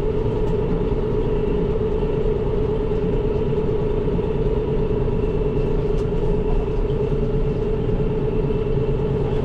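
Diesel engine of a John Deere tractor running steadily at low speed while the tractor backs up, a constant low rumble with a steady hum above it.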